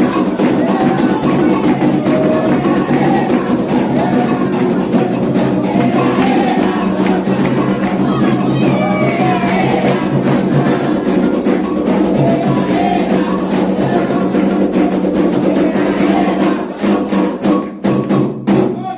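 Candomblé atabaque drumming, a fast steady beat under group singing of a chant for Oxossi. Near the end the drumming breaks into a few separate strokes and stops.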